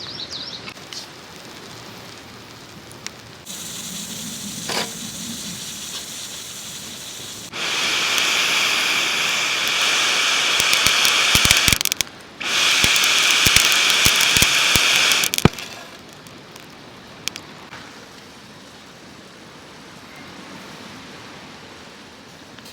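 Loud sizzling with crackles from a charcoal barbecue grill, in two stretches of a few seconds each about halfway through, with quieter sizzle before and after.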